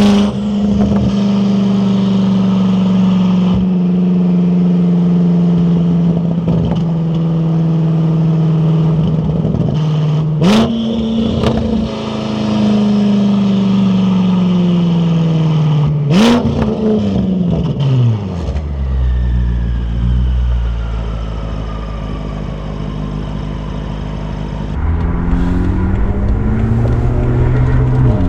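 BMW F10 M5 Competition's twin-turbo V8 through an Akrapovic exhaust while driving: a steady engine note broken by a few sharp cracks about ten and sixteen seconds in. The note then drops off into a low rumble with a faint falling whistle from the turbos, before it climbs again near the end.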